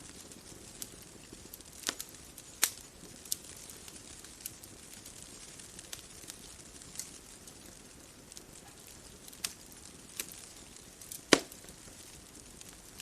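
Wood fire crackling: a soft steady hiss with scattered sharp pops, several in the first few seconds, then more near the end. The loudest pop comes about two seconds before the end.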